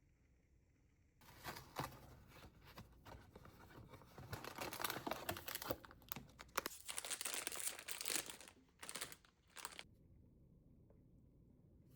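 Wrapping or packaging crinkling and rustling in irregular bursts as it is handled, starting about a second in and stopping shortly before the end.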